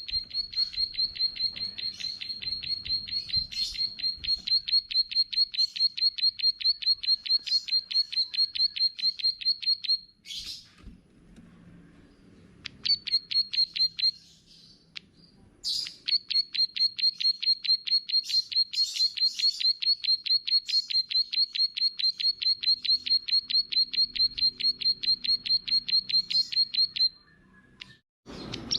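A small songbird giving long runs of rapid, evenly repeated high chirps, several a second. The calling breaks off about ten seconds in and resumes after a short pause.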